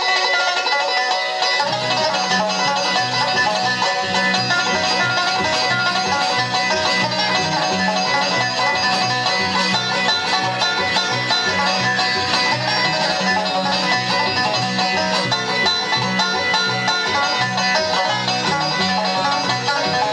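Acoustic bluegrass band playing an up-tempo instrumental, a banjo picking the lead over guitar. Low bass notes join about two seconds in, keeping a steady beat.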